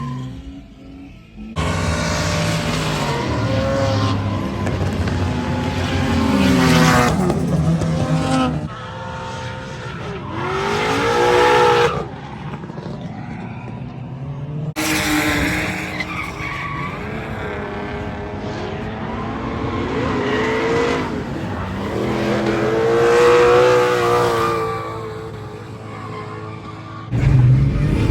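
Drift car engine revving hard, rising and falling, over tyres skidding and squealing. The sound changes abruptly several times, as between different runs.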